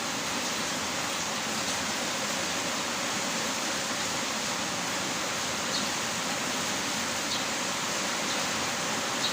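Heavy rain falling steadily, an even hiss of dense drops, with a few faint individual drop ticks in the second half.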